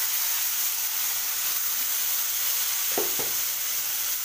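Chickpeas sizzling steadily as they fry in hot refined oil in a kadai, with two short knocks about three seconds in.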